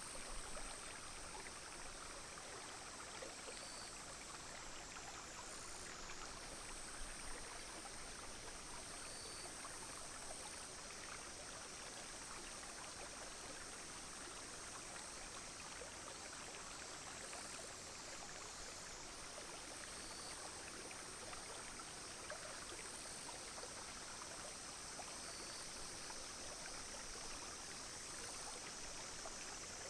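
A small, clear stream flowing and trickling steadily. Over it runs a continuous high-pitched buzz of cicadas and other insects, which drops out briefly twice, with a fainter short call every few seconds.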